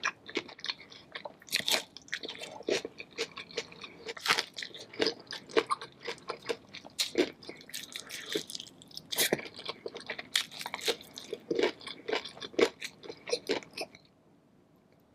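Close-up chewing and biting of crunchy food, a rapid, irregular run of crisp crunches and crackles that stops about a second before the end.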